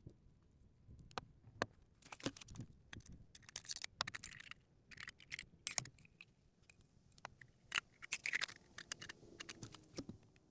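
Scattered sharp clicks and short bursts of scraping and rustling, like camp gear being handled and moved close to the microphone.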